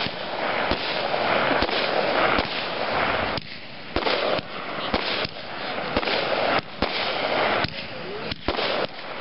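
Fireworks going off: a dozen or more sharp bangs from bursting shells, about one to two a second, over a continuous noisy rush that swells and fades.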